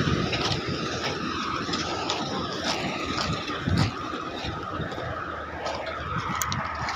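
Heavy truck running during a truck recovery tow: a steady rumble with a thin steady whine over it, scattered knocks, and a louder thump about four seconds in.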